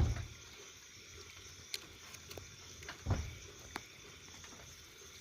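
Bonfire crackling: a low steady hiss with scattered sharp pops, and a louder, deeper thump about three seconds in.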